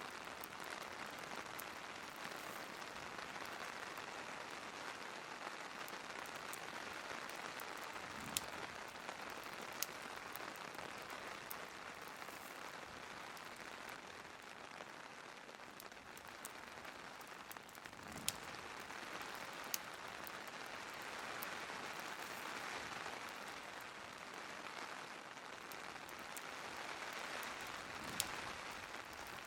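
Steady rain hiss, with about five sharp pops from a crackling wood fire standing out above it.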